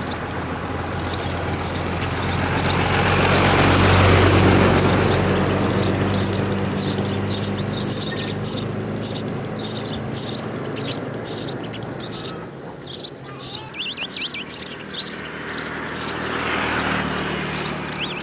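House sparrows chirping at the nest: short, high chirps repeated over and over, several a second. Under them a low engine rumble swells to its loudest about four seconds in, fades away by about twelve seconds and rises again near the end.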